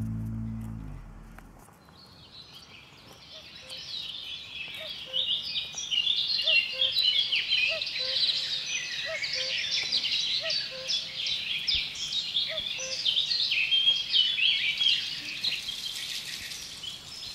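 Guitar music fading out, then many birds chirping and singing in a dense, busy chorus of short high notes, with a faint note repeating lower down.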